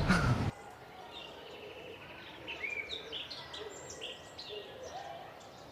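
Faint, scattered bird chirps, short quick notes and little glides, over a low steady background hush.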